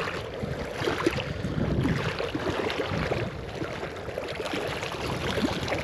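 Wind buffeting the microphone, with lake water lapping.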